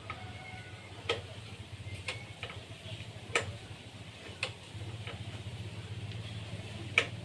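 About five sharp clicks or knocks at uneven intervals, the last the loudest, over a steady low hum.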